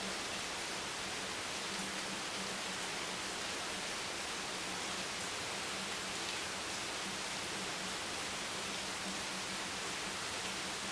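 Steady rain as a dense, even hiss with no distinct drops standing out, over a faint low hum.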